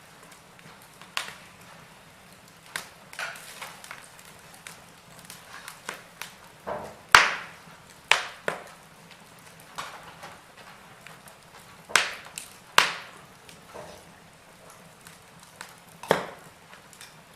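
Wood fire in a fireplace crackling, with sharp pops at irregular intervals, the loudest about seven seconds in.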